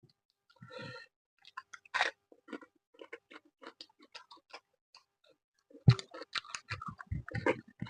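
A person chewing a mouthful of fish and rice, with irregular wet smacking and crunching clicks that come thickest near the end.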